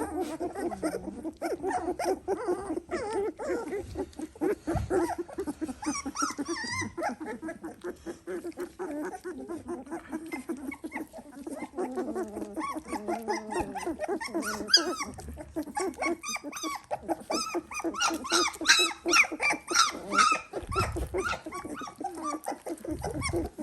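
Three-week-old Dalmatian puppies whining and squeaking at feeding time, many short high-pitched cries overlapping and coming thicker in the second half.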